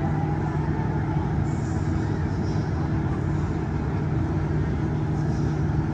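Steady low engine rumble with a constant deep hum, unchanging throughout.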